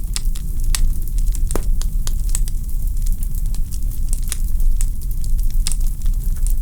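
Wood logs burning in a fireplace and crackling, with frequent irregular sharp pops and snaps over a steady low rumble of flames.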